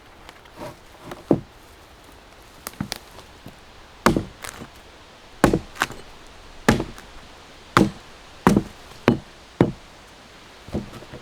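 Repeated sharp strikes of a hand tool on wood, about a dozen blows at uneven spacing, the hardest ones falling between about 4 and 10 seconds in.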